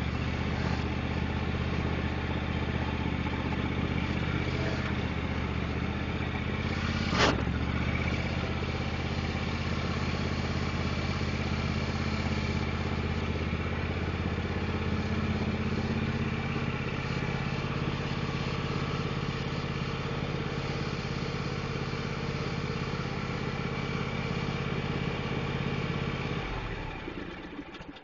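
A 24-horsepower Kawasaki V-twin engine on a Husqvarna riding mower, running steadily, with one sharp clack about seven seconds in. Near the end the engine is shut off and runs down to silence.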